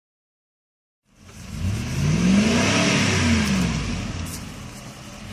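About a second of silence, then a 4x4 vehicle's engine revs up and falls back in one long swell, after which it runs on at lower revs.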